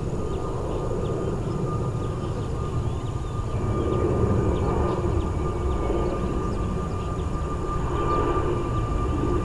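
Jet airliner engines running: a continuous low rumble with a steady high whine, the rumble growing a little louder from about four seconds in. Faint short chirps sound above it.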